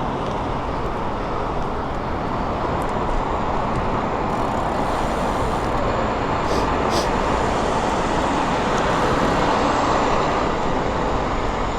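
Steady city traffic and road noise, heard from a moving bicycle in a bike lane.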